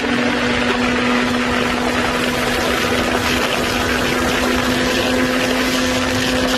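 Snowmobile engine running at a steady speed, a constant drone over a rush of noise.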